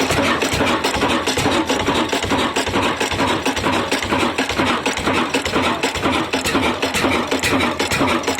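Old 20 HP stationary diesel engine running steadily under load driving a small flour mill, a fast even beat with no change in speed.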